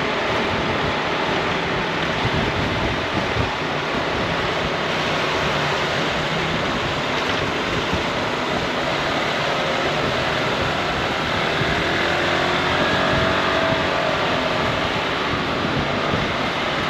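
Steady rush of wind and road noise from a Honda ADV 350 scooter underway, with faint rising and falling engine tones in the second half.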